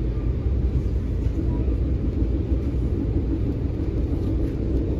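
Passenger train running along, heard from inside the carriage: a steady low rumble, with a faint hum joining about a second in.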